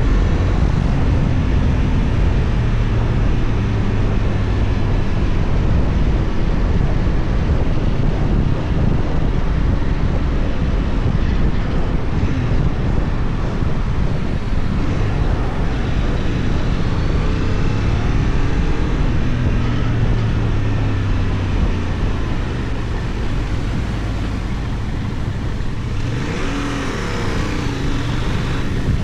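Benelli Tornado 550's 554 cc parallel-twin engine running while the motorcycle is ridden, under heavy wind rush on the action-camera microphone. The engine note rises and falls a few times.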